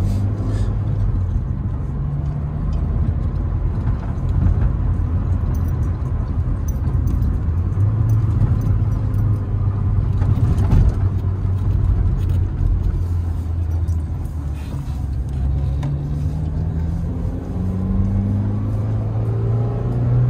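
Sixth-generation Honda Civic's four-cylinder engine and tyre noise heard from inside the cabin while driving. The engine note eases off for a while, then rises steadily as the car accelerates near the end.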